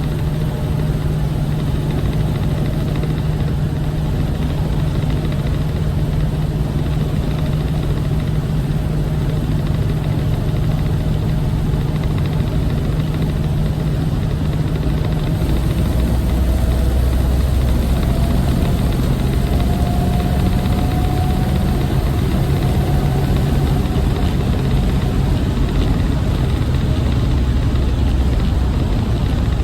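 1972 Plymouth Road Runner's 383 V8 running steadily on the road, with road noise. About halfway through the engine note deepens and grows a little louder.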